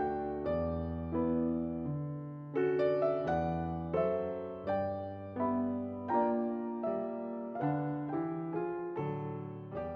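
Background piano music: a gentle melody over chords, with notes struck at an even pace a little faster than one a second, each ringing and fading.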